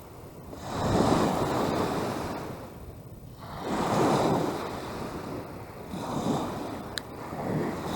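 Wind-driven lake waves breaking and washing on the shore, surging and falling back every two to three seconds, with gusting wind on the microphone.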